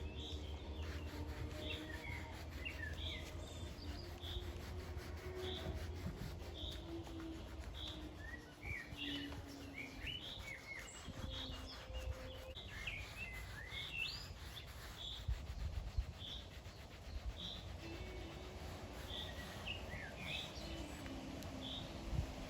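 Birds chirping, one repeating a short high note about every two-thirds of a second among other quick twittering calls, over a faint low hum.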